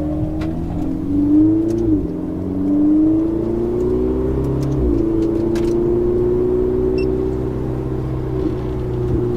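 Ferrari 488 GTB's twin-turbo V8 through a Capristo aftermarket exhaust, heard from inside the cabin, accelerating hard: the engine note climbs, drops sharply at two upshifts about two and five seconds in, then holds high and steady.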